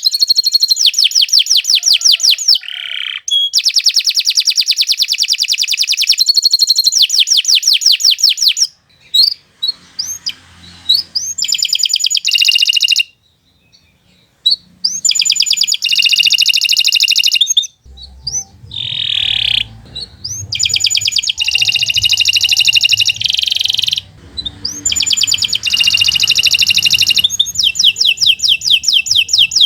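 Domestic canary singing a long, loud song of fast high trills and rolls, each run of rapid repeated notes switching to another, with a brief pause about halfway through.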